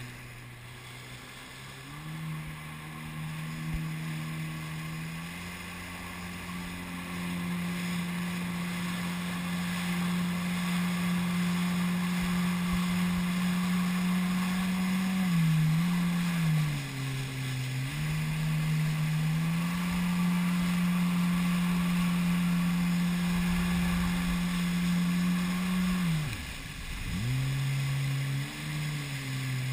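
Jet ski engine running, its pitch stepping up a couple of seconds in and then holding high and steady over a rush of water and wind. The throttle is eased off twice, just past the middle and again near the end, and each time the pitch drops and then climbs back.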